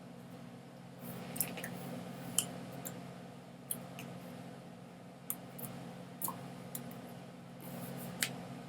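A steady low hum with small, sharp clicks scattered irregularly over it, about a dozen in all.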